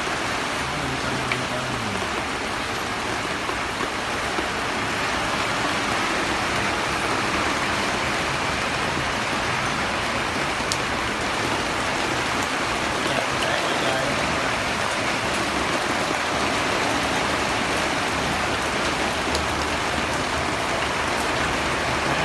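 First rain of the season falling steadily onto a fish pond, an even rush of rain with scattered individual drop hits.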